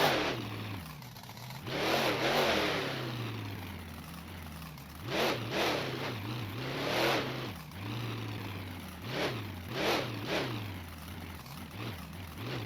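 Monster truck engine revving again and again: short, loud bursts of throttle over a low, rumbling idle.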